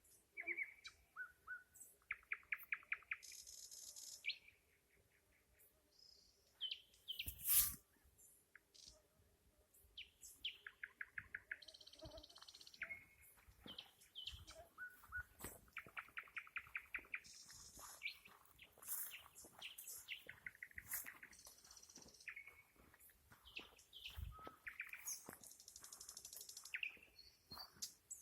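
Nightingale singing a long, varied song: fast trills of repeated notes, high whistles and quick clicking phrases with short pauses between them. A single sharp knock comes about a quarter of the way in.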